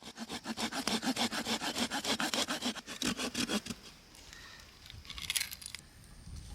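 Hand saw cutting firewood in quick, even strokes, about six a second, which stop a little past halfway through. A brief scraping follows near the end.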